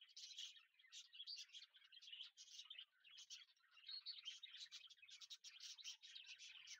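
Faint, continuous chirping and twittering of small birds, many short high calls overlapping with no pauses.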